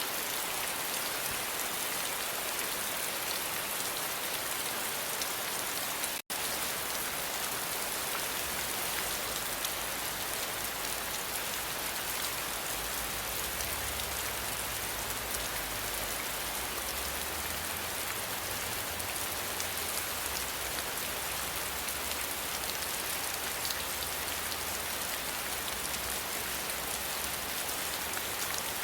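Steady, dense rainfall, an even hiss of drops, with a split-second cut to silence about six seconds in.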